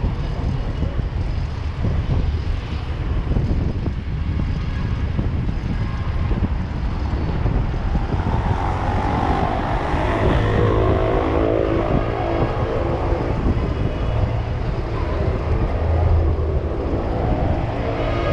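Street traffic rumble with wind buffeting the microphone while cycling. From about eight seconds in, a motor vehicle's engine passes close, its pitch rising and then falling away.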